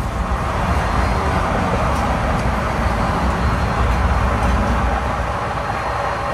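Running noise of a moving LHB passenger train heard from inside a coach: a steady rumble and rush of the wheels on the track and the coach body.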